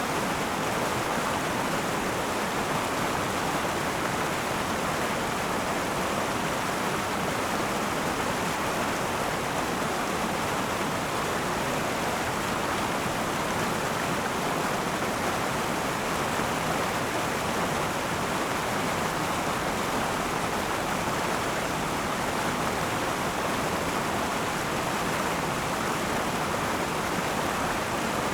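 River water flowing and rushing over rocks, a steady, even rushing with no breaks.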